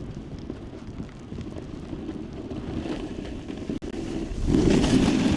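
Wind rushing over a body-worn microphone while a snowboard runs over snow, with a louder rushing scrape from about four and a half seconds in as the board carves.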